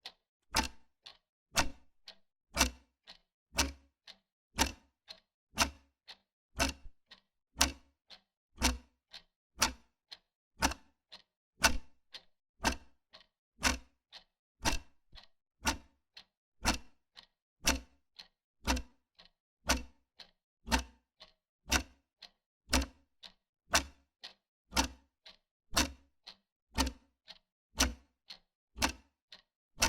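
Wall clock ticking steadily at about two ticks a second, an alternating louder and softer tick-tock.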